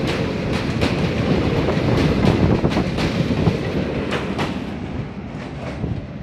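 Passenger coaches of an Indian express train passing close by, their wheels clacking over rail joints above a steady rumble. The last coach goes past about four seconds in, and the clatter fades as the train pulls away.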